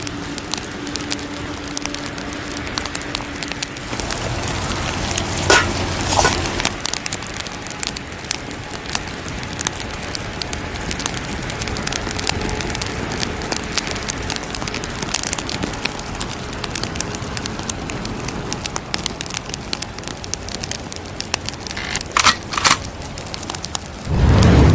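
Wood fire crackling in a fire pit: a steady hiss dotted with many small snaps, and a few louder pops about five to six seconds in and again near the end.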